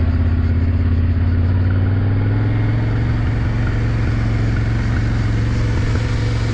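Yamaha Ténéré 700 parallel-twin engine running at a steady pace while the motorcycle is under way, with a constant low drone over road and wind noise.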